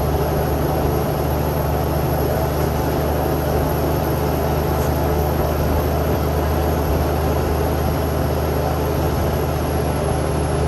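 Cummins X15 diesel engine of a Kenworth T800 truck running steadily under way, heard from inside the cab as a constant low drone.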